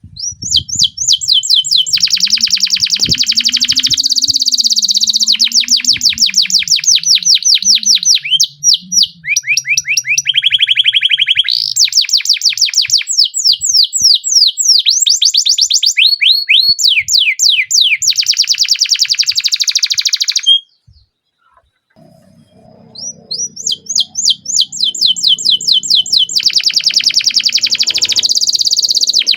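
Domestic canary singing long rolling trills: runs of rapid repeated high chirps and sweeping notes lasting several seconds each. The song breaks off briefly about twenty seconds in, then starts up again.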